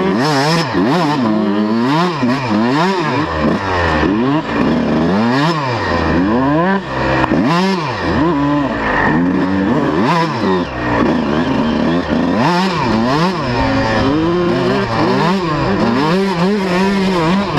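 A 125 cc two-stroke motocross bike being ridden, its engine revving up and dropping back over and over, roughly once a second, as the throttle is worked. The pitch holds steadier for a few seconds after the middle.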